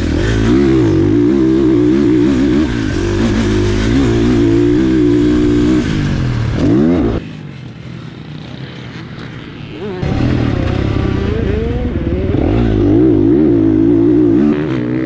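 450 four-stroke dirt bike engine on a motocross lap, revving up and down with the throttle. About seven seconds in the engine sound drops away for roughly three seconds, then comes back with a rising rev.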